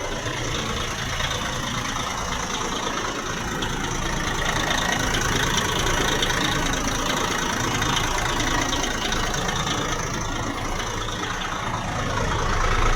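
Diesel bus engine idling steadily, a low rumble that swells a little in the middle and again just before the end.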